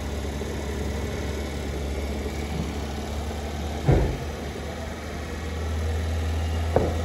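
Maruti Suzuki Wagon R engine idling steadily with its bonnet open, running to dry out moisture after an engine-bay wash. A single knock comes about four seconds in.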